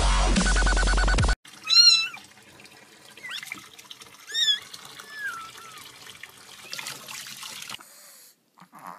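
A cat meowing: two loud meows, about two and four and a half seconds in, with a few quieter mews around them over a faint steady hiss.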